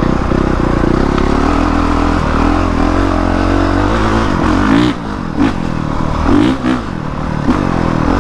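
Honda CRF450R dirt bike's single-cylinder four-stroke engine under way, its pitch rising and falling over and over as the throttle is opened and rolled off.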